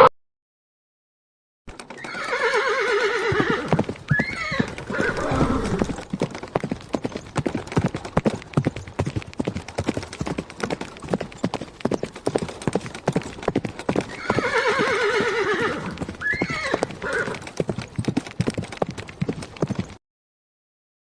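Horse neighing twice, each a falling, quavering whinny, with a long run of hoofbeats clip-clopping in between and after.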